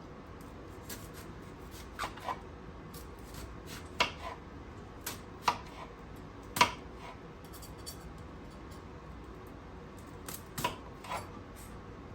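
Kitchen knife chopping a white onion on a cutting board: sharp knocks at uneven intervals, with a pause of a few seconds after the loudest one in the middle.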